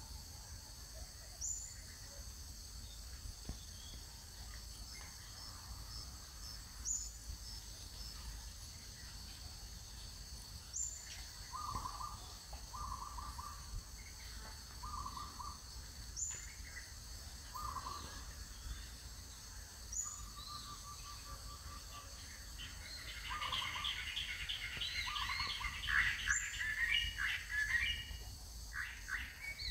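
Birds calling: a short high chirp repeated every few seconds and a run of short notes midway, then a louder burst of chattering calls near the end, over a steady high background hiss.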